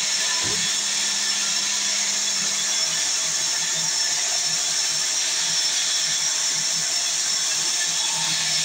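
Sawmill saw running with a steady high-pitched hiss and no break in level.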